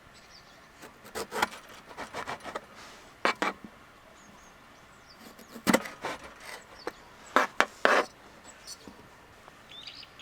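A series of irregular knocks and short scrapes, like objects being handled and set down, the loudest near the middle and near the end.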